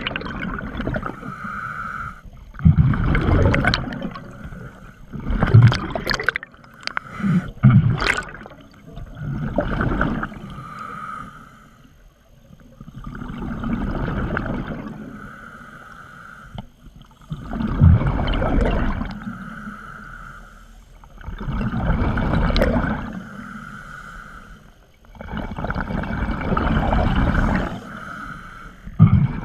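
Scuba diver breathing through a regulator underwater: a hiss on each inhale and a gurgling rush of exhaled bubbles, repeating about every four seconds.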